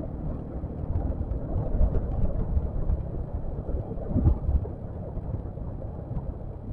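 Low, gusting wind rumble on the microphone mixed with road and traffic noise, as heard while riding a motorcycle.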